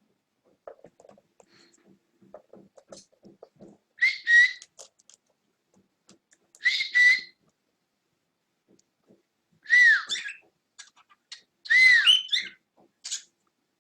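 Cockatiel calling: four loud, harsh whistled calls about two and a half seconds apart, the later ones rising and then falling in pitch. Faint soft clicking is heard in the first few seconds.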